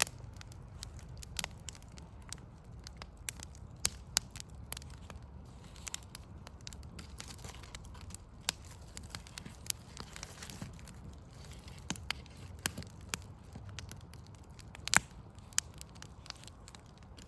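Wood fire burning and crackling, with irregular sharp pops and snaps over a steady low rumble; one louder pop about fifteen seconds in.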